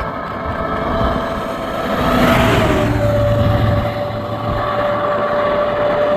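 A bus passes close by with its engine running; its whine drops in pitch as it goes past, about three seconds in.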